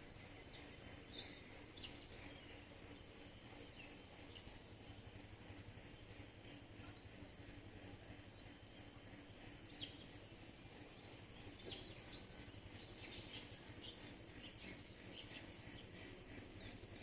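Faint outdoor nature ambience: a steady high-pitched insect drone, with scattered short bird chirps that become busier in the second half.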